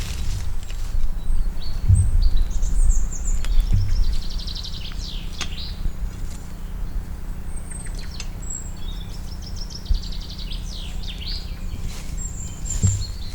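A songbird singing two phrases, each a run of high trills and quick downward sweeps, over a steady low rumble.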